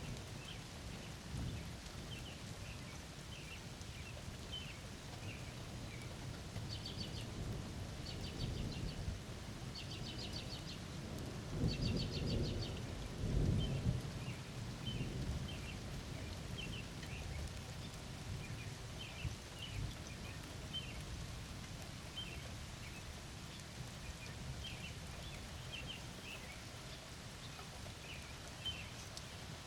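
Thunderstorm: steady rain with a low roll of thunder that swells for a few seconds about midway. Birds keep up short repeated chirps and a few buzzy trills throughout.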